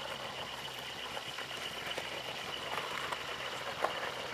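A vehicle engine idling steadily, with a few faint clicks later on.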